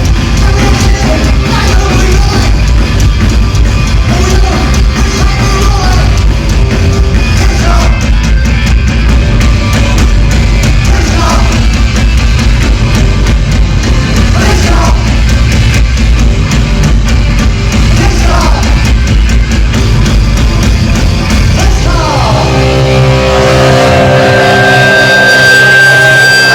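A live punk rock band playing loud, with distorted guitars, drums and shouted vocals. About 22 seconds in, the drums and bass drop out, leaving held guitar notes ringing as the song closes.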